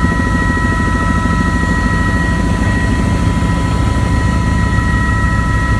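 Helicopter in flight: steady, loud rotor and engine noise with a fast low chop and a constant high whine over it.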